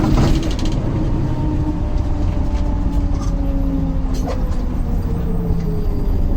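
Mercedes-Benz OM924LA four-cylinder diesel engine of an LO 916 bus running, its pitch falling slowly as the revs drop. A brief click sounds about four seconds in.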